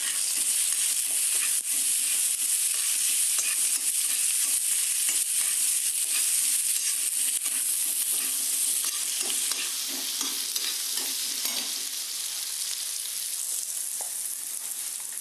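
Sliced onions and chopped ginger sizzling in hot oil in a steel kadai, stirred with a steel spatula that clicks and scrapes against the pan. The sizzle eases slightly near the end.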